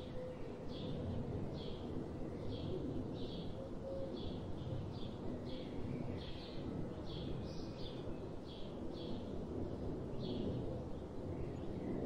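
Birdsong: a bird repeats a short high chirp roughly twice a second, with a few gaps, over a steady low rumble.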